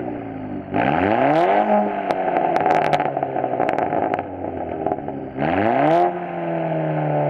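Volkswagen Golf R Mk6's turbocharged four-cylinder engine revved twice through a muffler-deleted exhaust, each rev rising sharply in pitch and then falling slowly back toward idle. Sharp crackles come from the exhaust after the first rev.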